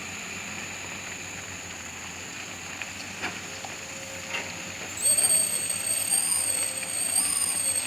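Excavator working: a steady machine hum with a couple of sharp knocks. About five seconds in, it grows louder and a high-pitched whine sets in.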